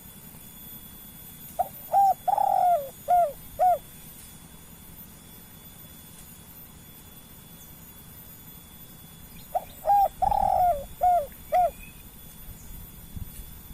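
Spotted dove cooing: two phrases of five coos each, the third note drawn out, the second phrase about eight seconds after the first.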